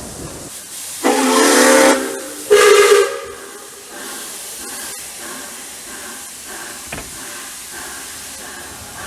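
Steam locomotive whistle sounded twice: a longer blast about a second in, then a short one.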